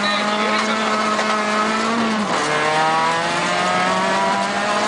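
Peugeot 206 XS rally car's four-cylinder engine pulling hard on a gravel stage, heard from inside the cabin, over a haze of gravel and tyre noise. The engine note climbs slightly, then drops sharply about two seconds in, as at a gear change, and pulls on steadily after that.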